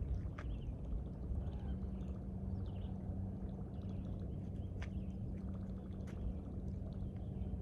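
Steady low machinery hum with a constant low tone, under faint short bird chirps. A couple of sharp clicks, about half a second in and about five seconds in.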